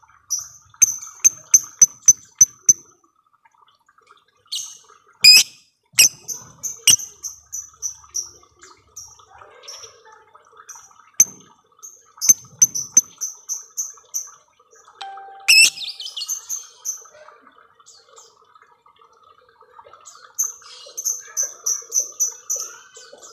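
Lovebird chattering: several runs of fast, evenly repeated high chirps, each run lasting about two seconds, with sharp single clicks between them — the long 'ngekek' trill and 'ngetik' clicking of a lovebird.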